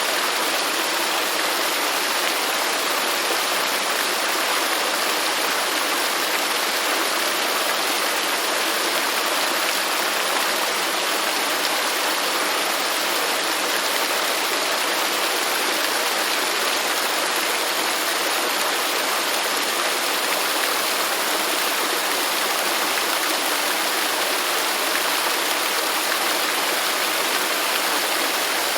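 Waterfall: water pouring and splashing in a steady, unchanging rush, with little deep rumble.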